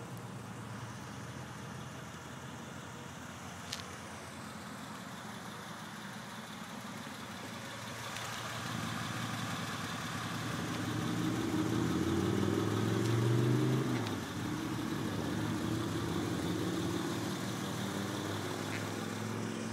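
Car engine running, growing louder from about eight seconds in and dropping suddenly at about fourteen seconds, with a single click around four seconds in.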